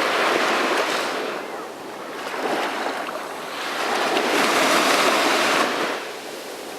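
Sea waves breaking and washing up the shore in surges: one wash at the start, a smaller swell a couple of seconds in, and the biggest from about four seconds in, which dies away near the end.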